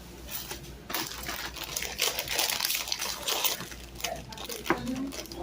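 Rustling and crinkling of food packaging being handled, busiest from about one to three and a half seconds in.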